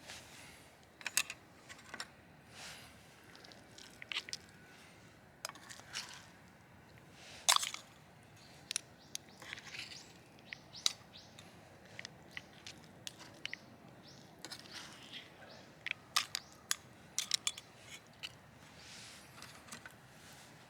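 Scattered small clicks and taps at irregular intervals, the sharpest about seven and a half seconds in, over a quiet background.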